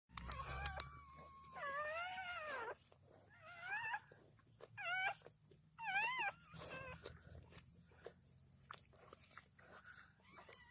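Newborn puppies crying: high-pitched, wavering squeals, about half a dozen in the first six seconds, with fainter ones after.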